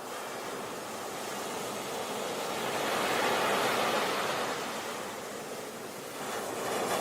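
Sea waves washing onto a beach: a steady rush of surf that swells about three seconds in, eases, then builds again near the end.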